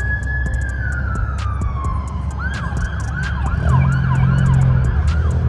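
Police car siren: a long wail that slowly falls in pitch, then switches to a fast yelp of quick up-and-down sweeps about halfway through. A low engine rumble runs underneath.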